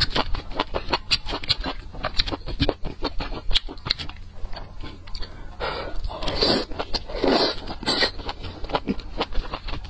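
Close-miked chewing of spicy noodle soup with enoki mushrooms: many short wet smacking clicks throughout, with three longer slurping sounds in the middle.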